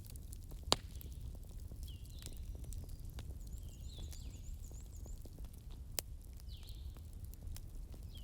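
Wood fire crackling: a steady low rumble under many small ticks, with two sharp pops, the louder one just under a second in and another about six seconds in. Faint, short, falling high chirps come and go over it.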